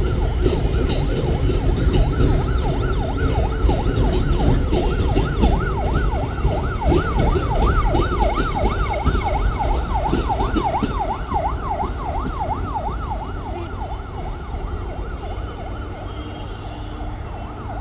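Mumbai local train passing with a heavy rumble and rattle of wheels, easing off over the last few seconds. Over it, a fast electronic warbling tone sweeps up and down about three times a second, strongest in the middle and fading out well before the end.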